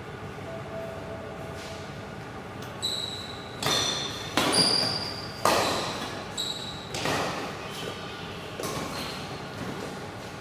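A badminton rally: a run of sharp racket-on-shuttlecock smacks, roughly one a second for several seconds, mixed with short high squeaks of shoes on the court floor.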